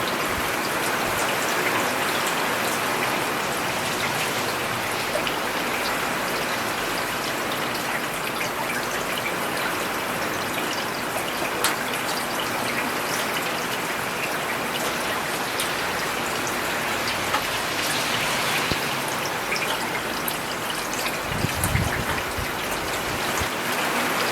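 Steady rain falling on a road: an even hiss with many small drop ticks. A brief low rumble swells in a few seconds before the end.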